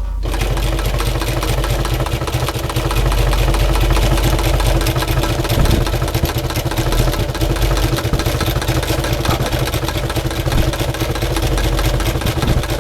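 Sewing machine running steadily, stitching a long straight seam, its needle strokes too fast to count; it starts right at the beginning.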